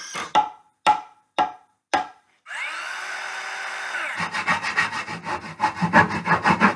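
Woodworking tool sounds: four sharp knocks, then a steady run of a tool for about a second and a half, then fast, even sawing or rasping strokes on wood, about six a second.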